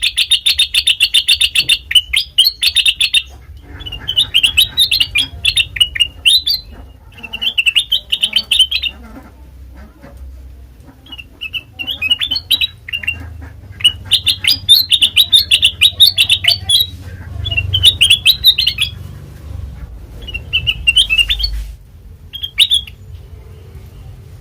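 Kutilang emas (a bulbul) singing: loud phrases of rapid, high chirps, each lasting a second or two, repeated about ten times with short pauses between them.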